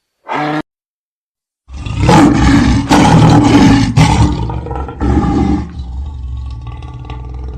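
A large animal's roaring call: a brief call near the start, then a loud, rough roar lasting about four seconds that drops to a quieter, lower rumble.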